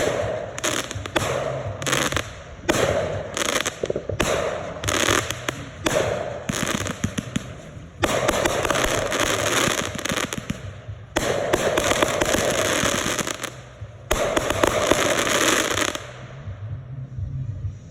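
Consumer fireworks going off: a quick run of short bursts for about eight seconds, then three longer stretches of dense popping and crackling, which die away about sixteen seconds in.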